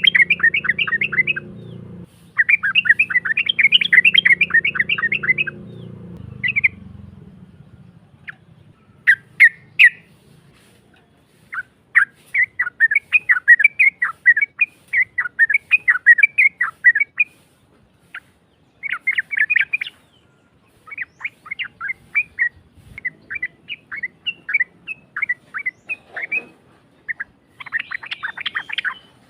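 Yellow-vented bulbul (trucuk) singing in rough, rapid chattering phrases of quick notes, broken by short pauses. A low hum runs underneath for the first six seconds or so.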